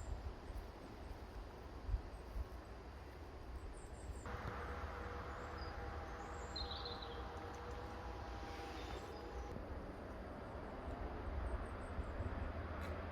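Outdoor woodland ambience with a low rumble throughout. A distant steady mechanical hum starts suddenly about four seconds in and fades out a few seconds later. A bird gives a brief chirp during it.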